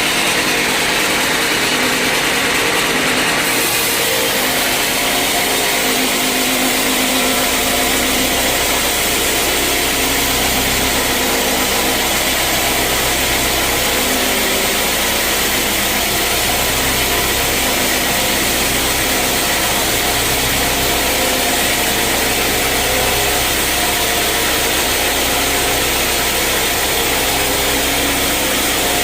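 Sawmill machinery running steadily, a loud continuous mechanical noise with a deeper hum joining about seven seconds in.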